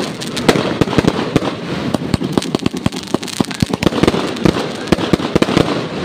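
Fireworks going off in rapid succession: a dense, continuous stream of sharp cracks and bangs, several a second, over a crackling haze.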